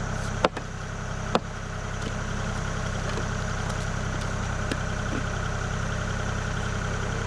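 Kubota KX040 mini excavator's diesel engine running steadily, with two sharp knocks about half a second and a second and a half in.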